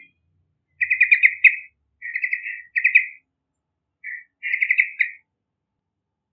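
Sooty-headed bulbul (trucukan) singing: three short phrases of quick, chattering notes about a second apart.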